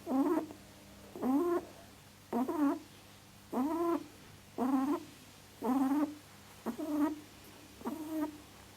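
An animal's repeated pitched calls, about once a second, eight short cries of roughly half a second each, the last two shorter and fainter.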